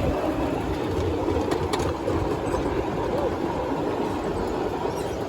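A train running steadily on its rails, a continuous rumble.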